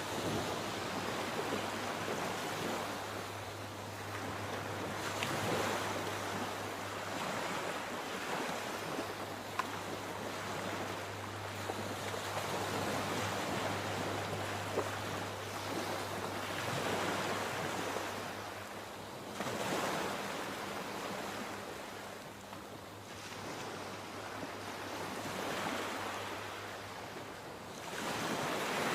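Sea waves breaking and washing in, a continuous rush of surf that swells and eases every several seconds. A faint steady low hum runs underneath and fades out about two-thirds of the way through.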